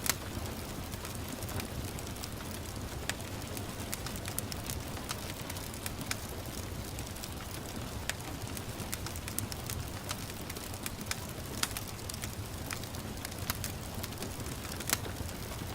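Wood fire crackling with irregular sharp pops, one louder pop near the end, over a steady hiss of gentle rain.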